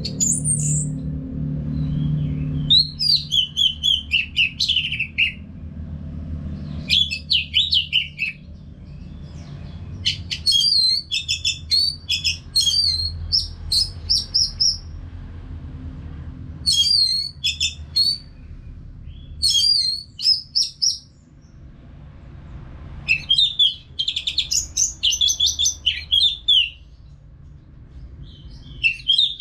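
Orange-headed thrush singing in about seven bouts of rapid, varied, high whistled phrases, with pauses of a second or two between them. A low steady hum runs underneath.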